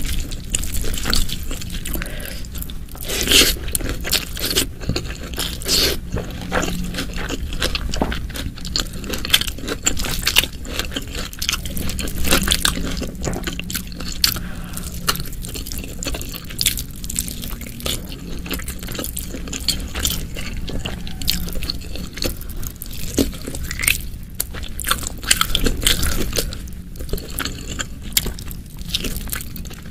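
Close-miked chewing of food: wet mouth sounds with frequent sharp clicks and crunches, irregular and continuous.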